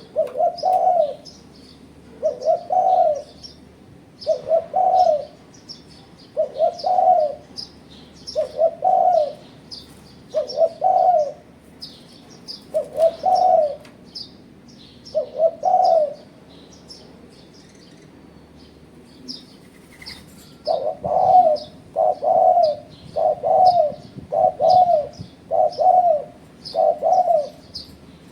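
Spotted dove (tekukur) cooing: repeated coo phrases about every two seconds, which break off about two-thirds of the way through and resume as a quicker run of coos near the end. Faint, thin, high chirping goes on under them.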